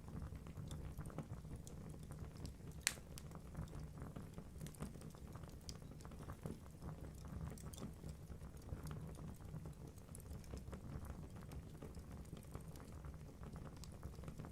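Wood fire burning in a fireplace: a steady low rumble with irregular crackles from the logs and one sharp pop about three seconds in.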